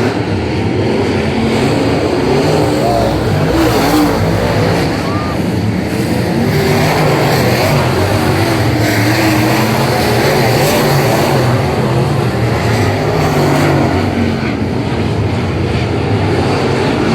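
Late model stock car V8 engines running at racing speed, a steady loud engine noise whose pitch wavers up and down as the cars go around the track.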